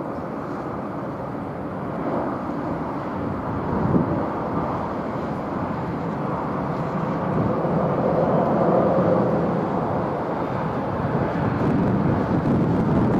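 Jet airliner engine noise: a steady rushing rumble that swells a little after the middle and again near the end.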